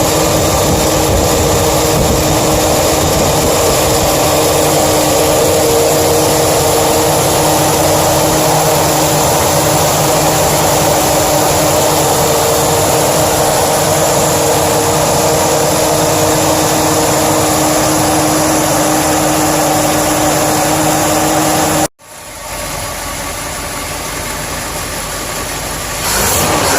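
1958 Chevrolet Corvette's 283 cu in V8, fed by a four-barrel Edelbrock carburettor through a standard exhaust, idling steadily. About 22 seconds in the sound cuts out abruptly and comes back quieter, then gets louder again near the end.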